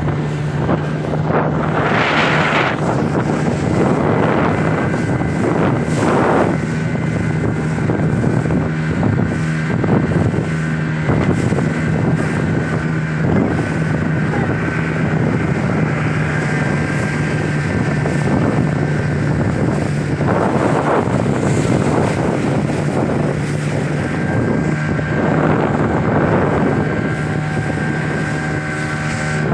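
Motorboat engine running at a steady, even pitch, with wind noise on the microphone.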